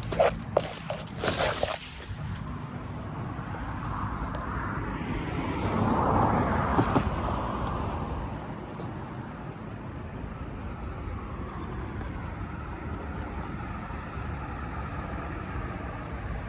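A passing car: road noise swells and fades over a few seconds near the middle, over a steady low traffic rumble. A few sharp knocks or scrapes in the first couple of seconds.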